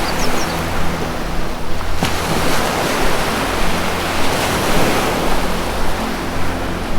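Ocean surf washing in, a wave surging to its loudest through the middle, over a low sustained music drone. A few short high bird chirps sound right at the start.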